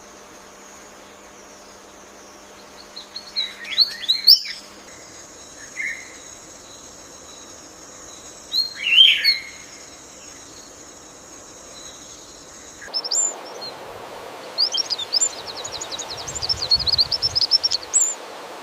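Birds chirping: a few short high calls, then a fast run of rapid chirps near the end, over a steady background hiss.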